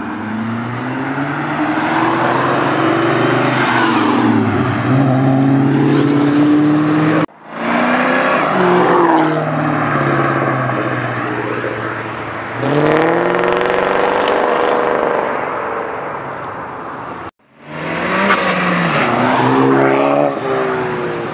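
Supercar engines accelerating hard while pulling away, the pitch climbing and dropping back through gear changes several times. The sound breaks off abruptly twice for a moment.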